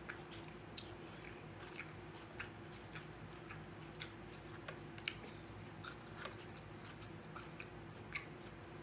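A person chewing a mouthful of soft takeout food, with irregular wet mouth smacks and clicks, roughly two a second. A faint steady hum runs underneath.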